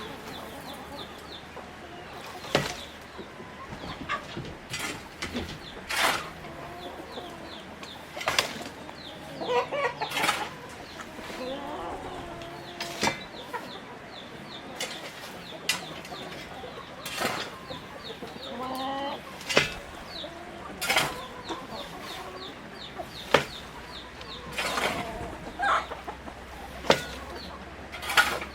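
Chickens clucking in short, scattered calls, with faint high chirps, broken by frequent sharp clicks or knocks, which are the loudest sounds.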